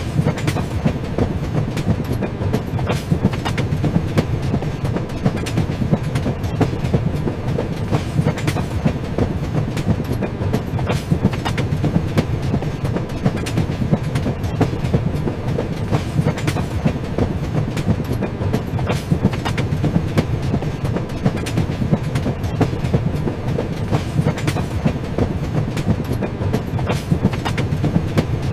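Train running along the track: a steady low rumble with frequent sharp clicks of the wheels passing over rail joints.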